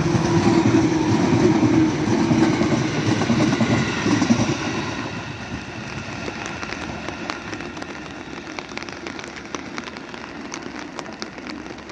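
A JR 211 series electric train running past on its wheels and rails, loudest for the first four seconds or so and then fading away as it goes.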